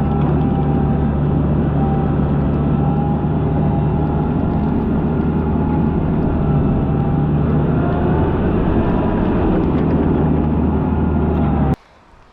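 TYM 574 compact tractor's diesel engine running steadily, with a wavering whine above the engine note. It cuts off suddenly near the end.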